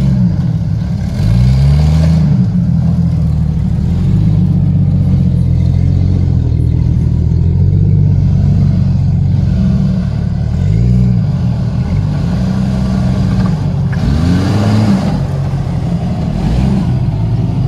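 A 4x4 off-road vehicle's engine running steadily and revving up and falling back several times in short throttle bursts as it crawls over rocks.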